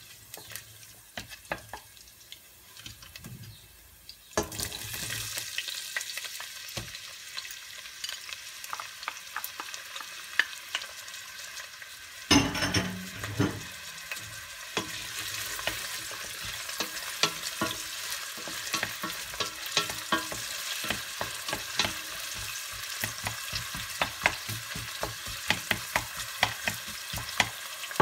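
Chopped garlic sizzling in olive oil in a stainless steel pot, stirred with a wooden spoon that clicks against the pot; the sizzle grows louder about four seconds in. About twelve seconds in, chopped onion is tipped in with a loud rush, and it keeps sizzling under frequent spoon clicks.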